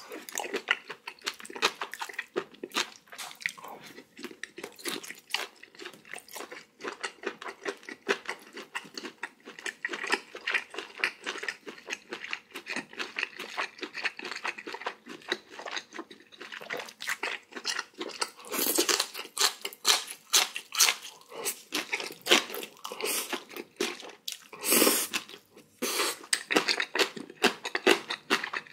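Close-miked eating: a person chewing mouthfuls of spicy raw oyster salad and boiled pork wrapped in fresh napa cabbage, with many crisp crunches and wet chewing, a few louder crunches about two-thirds of the way through and again near the end.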